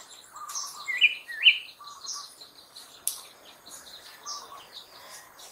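Birds chirping, many short high calls, with two louder chirps close together about a second in.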